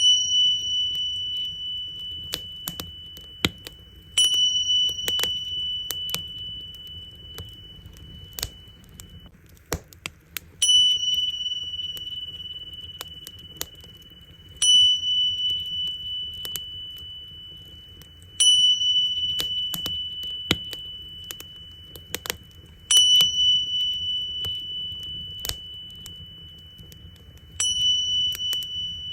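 Tingsha cymbals struck together seven times, about every four to five seconds; each strike is a clear high ring that fades slowly. Under them, the crackle and pops of a wood fire.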